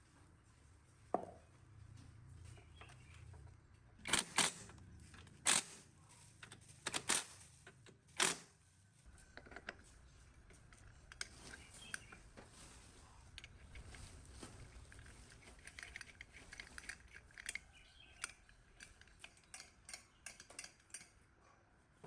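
Small metal parts and hand tools clinking and tapping on a workbench: a handful of sharp knocks in the first half, then a run of lighter, quicker ticks and clinks.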